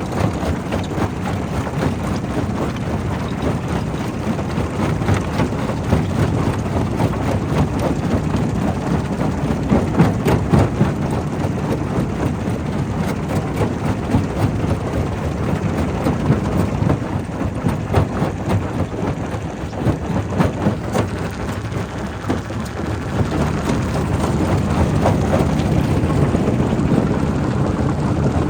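Primary rock crusher breaking stone: a steady low mechanical rumble with a dense clatter of rocks knocking and cracking, growing a little louder about three-quarters of the way through.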